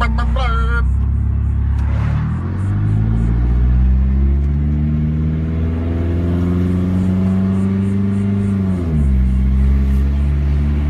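Turbocharged Hyundai Sonata engine accelerating under load, heard from inside the car. The revs dip briefly about two seconds in, climb steadily for about six seconds, then drop sharply near the end.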